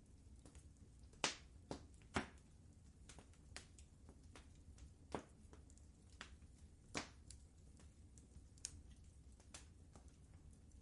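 Fireplace fire crackling softly: irregular small pops and snaps, a few sharper ones standing out, over a faint low rumble.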